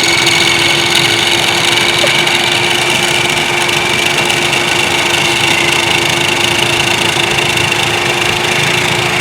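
Hoover Dimension Supreme vacuum cleaner running steadily: a loud, even motor whine over a low hum, with no change in pitch.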